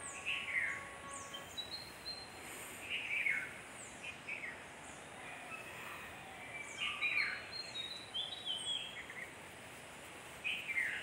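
Bird calls: short falling chirps that repeat every second or two over a steady background hiss.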